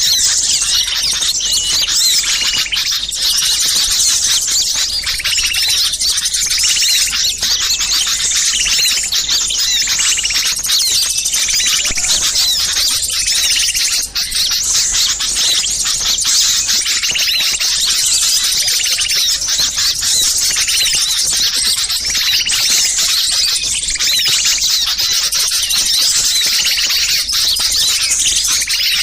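A dense chorus of many small songbirds' agitated alarm calls and chatter, overlapping without pause. This is a bird-trapping lure recording of mixed small birds, made to draw wild birds in.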